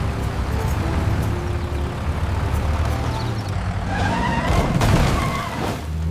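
A cartoon truck's engine running with a steady low rumble, then tyres squealing in a skid about four seconds in.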